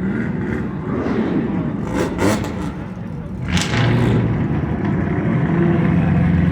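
A car engine settles into a steady low running drone about halfway through, after a few sharp clicks and a knock, over general outdoor background noise.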